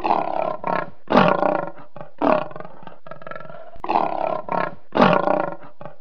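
Tiger roaring in a series of about five short calls, with a longer gap near the middle.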